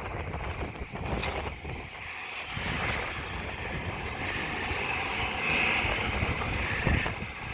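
Wind buffeting the microphone over the steady rumble of road traffic.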